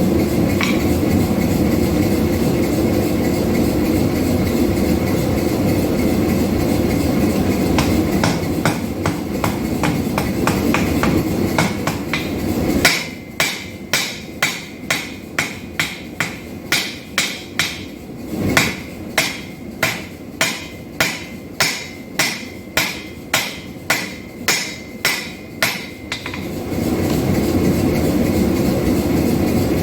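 A cross-peen hand hammer striking hot 5160 steel on an anvil to shape a knife blade. There are light taps about eight seconds in, then a run of about twenty heavy blows at roughly one and a half a second through the middle. A steady low rushing noise fills the rest and drops away during the heavy blows.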